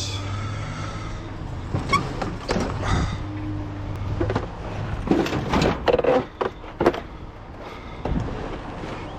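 Scattered knocks and clunks of objects being handled, over a steady low hum.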